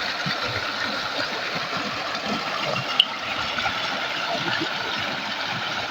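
River water flowing steadily over rocks, an even rushing noise, with a single sharp click about three seconds in.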